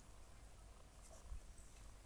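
Near silence, with a few faint soft ticks and one small low knock.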